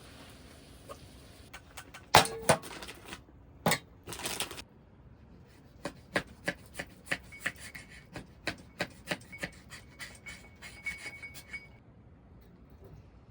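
Cookware or utensils being handled: a few loud knocks and scrapes, then a run of light, evenly spaced taps about two a second that stops shortly before the end.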